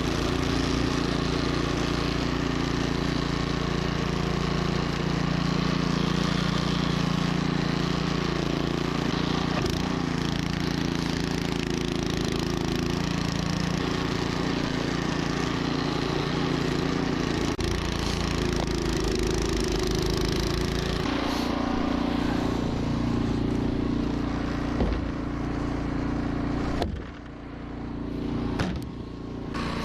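Troy-Bilt snowblower engine running steadily under load, with the rush of the auger and impeller throwing snow. Near the end the sound drops off sharply and comes back about two seconds later.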